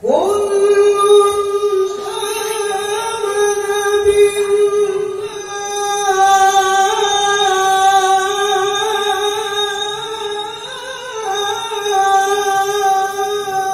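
Male Quran reciter (qari) in melodic tilawah, holding one long, very high note in a single breath with slight wavering ornament. The pitch briefly shifts about eleven seconds in before settling back.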